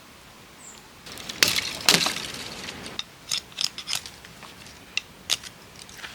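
A short burst of clattering about a second in, then a string of separate sharp clicks and knocks, like small hard objects being handled and set down.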